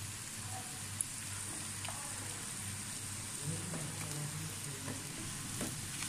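Julienned carrots and shredded chicken frying in ghee in a wok: a steady sizzle as they are stirred with a silicone spatula, with a couple of faint ticks.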